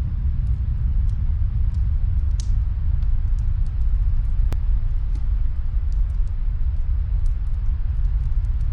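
Steady low rumble of snowstorm wind, with faint, scattered crackles and pops of a wood fire in another room; one sharper pop about halfway through.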